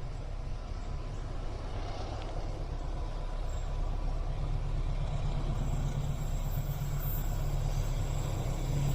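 Diesel locomotive of the Parahyangan passenger train running, a deep engine rumble that grows steadily louder.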